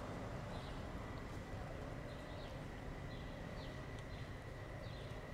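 Outdoor ambience: a low background rumble with a bird giving repeated short, falling chirps about twice a second, over a faint steady high tone.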